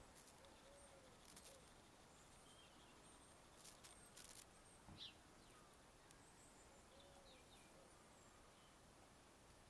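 Near silence: a quiet outdoor background with a few faint, distant bird chirps and a handful of soft ticks near the middle.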